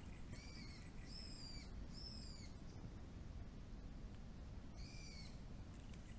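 A bird calling: four short whistled calls, each arching up then down in pitch, three in quick succession then one more near the end.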